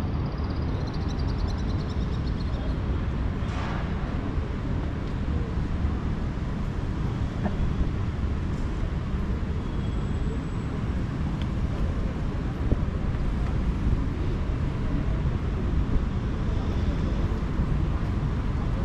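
Outdoor city ambience: a steady low rumble of distant traffic and engines, with a few faint brief sounds over it.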